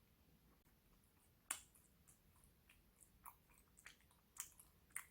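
Quiet, close mouth sounds of biting into and chewing a vanilla macaron: scattered soft clicks and smacks, with one sharper snap about a second and a half in.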